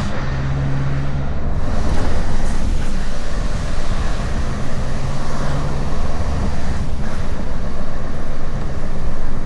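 Diesel lorry engine running steadily, heard outdoors with wind rushing over the microphone.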